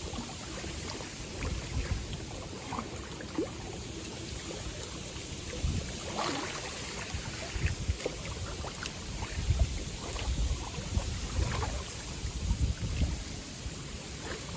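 Small wind-driven waves lapping and splashing at a lake shore, with a steady hiss and gusts of strong wind buffeting the microphone.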